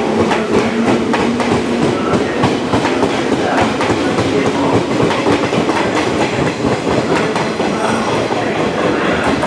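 JR 189 series electric express train running past along the platform, its wheels clicking over the rail joints as the cars go by.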